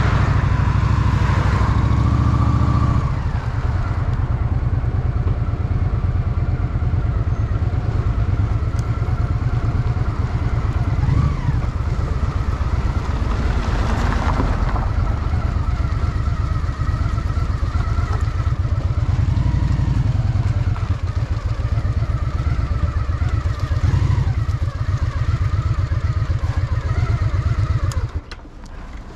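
Honda Shadow VT750's V-twin engine running under way, a loud low pulsing beat whose pitch rises and falls as the throttle opens and closes. The sound falls away briefly near the end.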